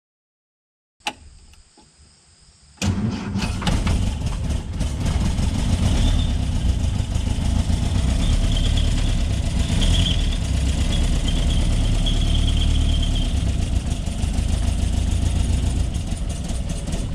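1964 Triumph TR4's four-cylinder engine started, heard from the driver's seat with the bonnet open. A click comes about a second in, the engine catches about three seconds in, and it then runs steadily.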